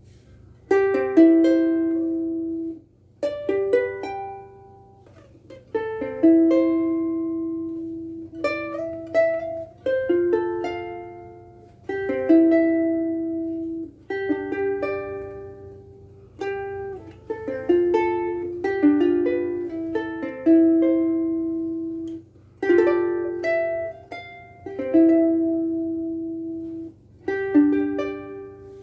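Cocobolo Ukuleles soprano ukulele, freshly strung with higher-tension Oli Uke Logic strings, played solo: plucked chords and melody notes ring out and fade, with a new phrase about every two seconds.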